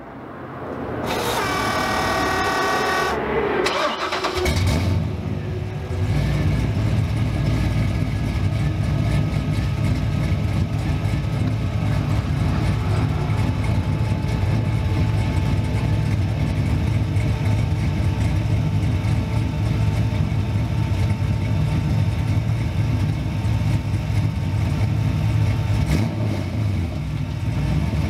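A car engine being cranked by its starter, a whine for about three seconds, then catching about four to five seconds in and running steadily for the rest.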